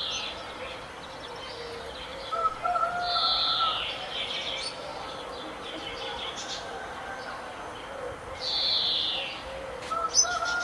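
Several birds calling. A high, falling call comes three times, about every four to five seconds, over lower, steady-pitched calls.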